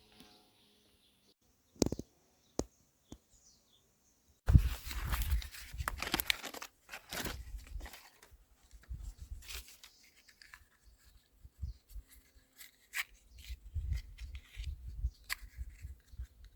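Irregular crunching and rustling, starting abruptly about four and a half seconds in, with a few bird chirps near the start.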